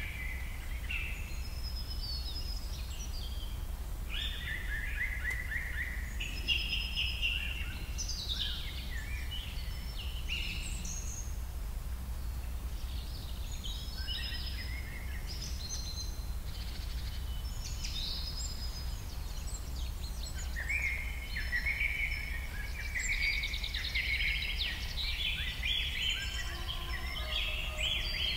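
Several birds singing and chirping, with quick trills and gliding phrases overlapping and coming and going, over a steady low hum.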